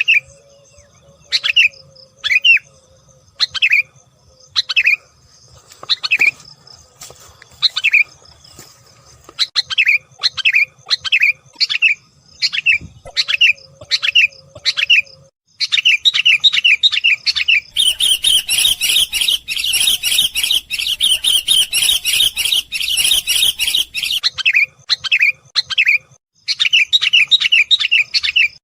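Sooty-headed bulbul (kutilang) calls: short sharp notes about once a second, quickening, then from about halfway a fast continuous chatter that is loudest and busiest in the middle before breaking into shorter runs near the end.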